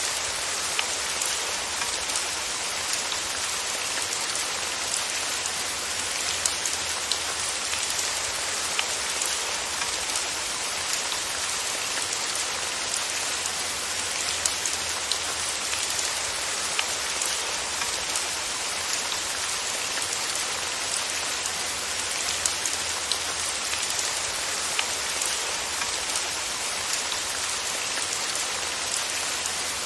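Steady rain: an even hiss of falling rain with many scattered sharper drops tapping on a surface.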